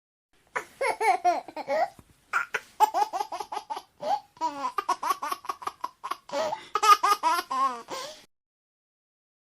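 A baby laughing in high-pitched giggling bursts, with quick runs of laughs in between short breaths. It stops about 8 seconds in.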